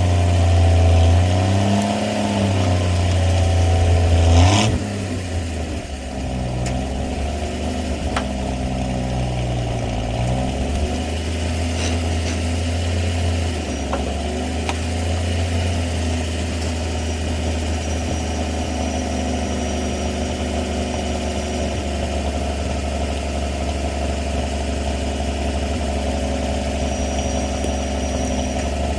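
Old winch truck's engine revving unevenly for the first few seconds, then settling into a steady idle.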